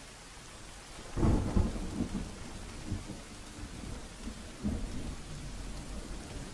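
Thunderstorm sound effect: a steady hiss of rain, then a thunderclap about a second in that rolls on with further rumbles for several seconds.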